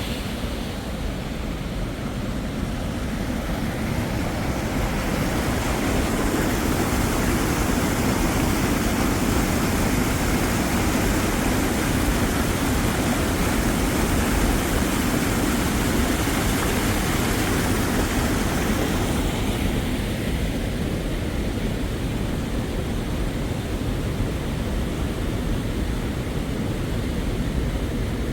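Floodwater pouring over a river weir, a steady rushing noise with the force of very high water behind it. It grows fuller about six seconds in and eases a little near twenty seconds.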